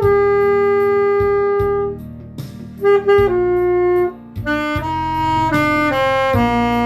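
Saxophone playing a slow melody over a backing accompaniment: a long held note for about two seconds, a softer stretch with a few short notes, then the tune moving on in step-by-step notes.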